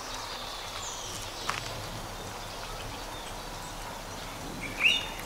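Outdoor ambience with faint, high bird chirps. Near the end a short, sharp, high-pitched chirp stands out loudest.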